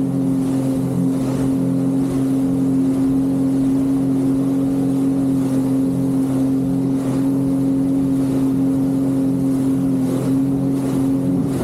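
Jet ski engine running at a steady throttle, holding one even pitch while the craft cruises.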